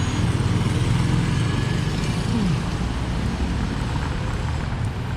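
Street traffic: motorcycle and car engines running past in a steady noise.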